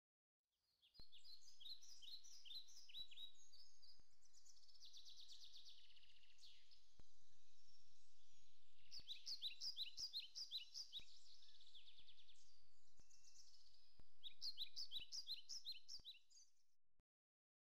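Birds chirping in quick runs of short, high notes, coming in three bursts over a faint hiss; the sound fades in about a second in and cuts off suddenly near the end.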